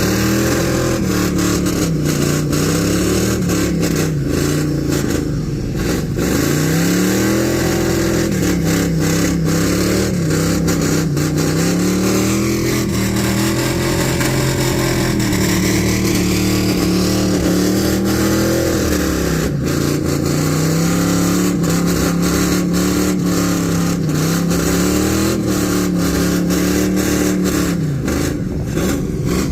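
Engine of a car or truck doing a burnout, held at high revs and rising and falling in pitch every second or two.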